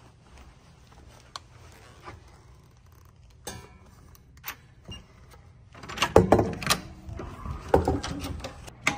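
Handling noises: scattered clicks and knocks, then a louder run of knocks and rustling over the last three seconds.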